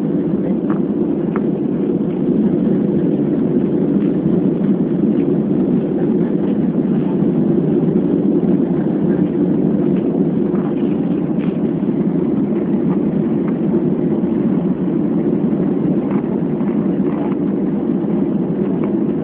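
Steady, loud aircraft engine and airflow noise, an even rumble that holds level with a few faint ticks.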